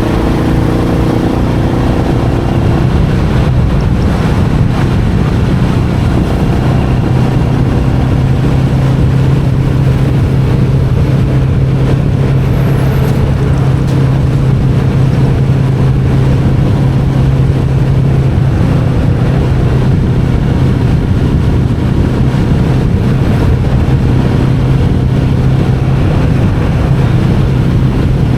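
Royal Enfield Meteor 350's single-cylinder engine and exhaust running at a steady cruise, an even, unchanging note under rushing road and wind noise.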